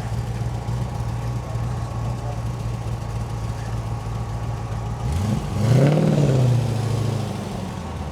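A car engine runs steadily at low revs. About five seconds in it revs up briefly, then drops back to a steady run.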